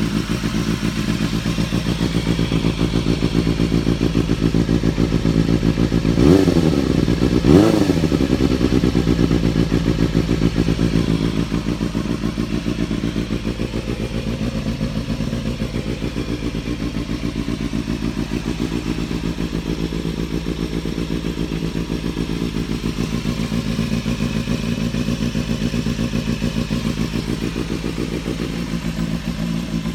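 Suzuki Bandit 250's inline four-cylinder engine idling steadily through an aftermarket Akrapovič muffler, blipped twice in quick succession about six and seven and a half seconds in.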